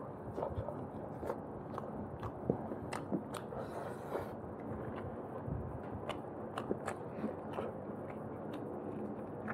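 Close-miked mukbang eating: a man chewing and biting roast chicken and rice, with wet mouth clicks and smacks coming at an irregular pace. A brief hiss sounds about four seconds in.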